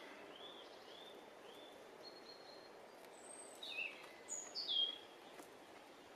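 Wild birds calling: a run of short, evenly spaced chirps, then a few louder whistled notes that fall in pitch about midway. Faint steady background noise runs underneath.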